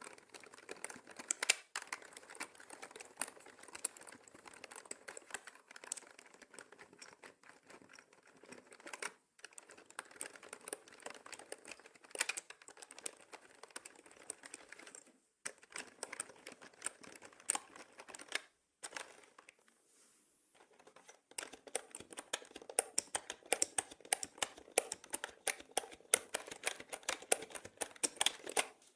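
Typing on a mechanical keyboard: a fast, continuous run of key clicks, mixed as 8D audio. There are brief breaks, and a pause of about two seconds before the middle, after which denser typing resumes.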